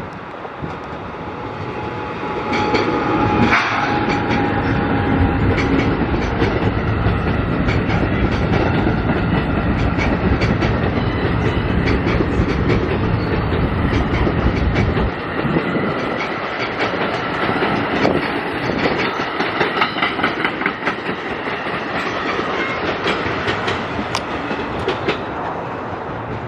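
NJ Transit MultiLevel commuter train passing, steel wheels clicking over rail joints. The deep rumble drops away sharply about halfway through, and a lighter run of evenly spaced clicks carries on.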